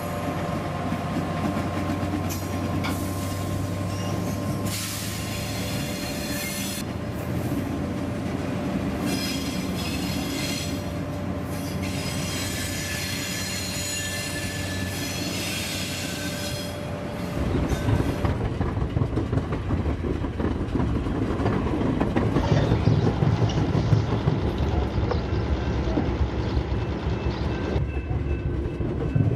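Railroad train rolling on track: a steady hum with patches of high wheel squeal, then, a little past halfway, louder rumbling and clatter from the wheels.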